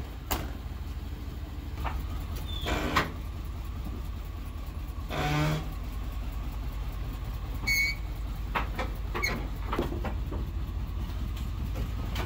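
A vehicle engine idling with a steady low rumble, with a few scattered clicks and knocks over it.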